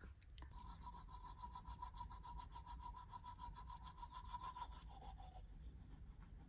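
A dog whining: one long, thin, high whine with a fast flutter, dipping in pitch just before it stops about five seconds in.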